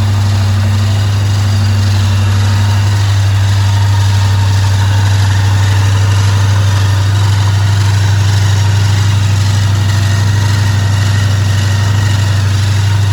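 Supercharged 454 Chevy big-block V8 idling steadily.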